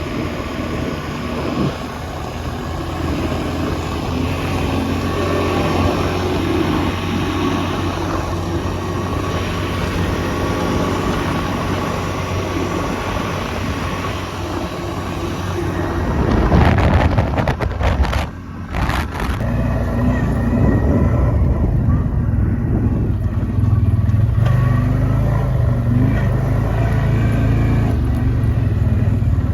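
Quad bike (ATV) engine running under way, a steady hum that grows louder from about halfway through, with a brief dip a couple of seconds later.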